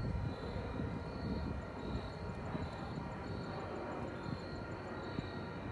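Steady low rumble of a distant train approaching along the line, with faint high chirps repeating about once a second.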